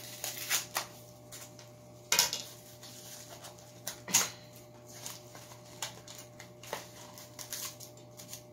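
Cardboard firework cake being pried and pulled apart by hand: irregular clicks, scrapes and rustles of paper and card, with louder knocks about two and four seconds in.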